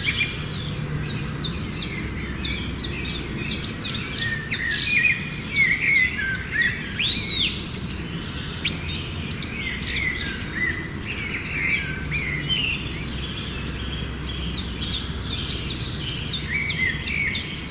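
Many small birds chirping and calling at once, a dense tangle of quick overlapping chirps and short whistled sweeps, over steady low background noise.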